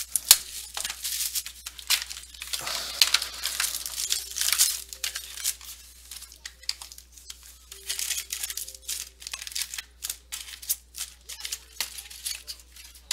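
Plastic wrapping and card packaging torn open and crinkled by hand as a box of baseball cards is opened. It comes as a run of short, sharp, irregular tearing and rustling noises.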